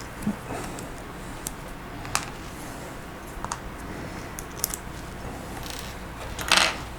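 Lego Technic plastic pieces clicking now and then as they are pulled apart and dropped into sorted piles, a few scattered sharp clicks. A short hiss near the end.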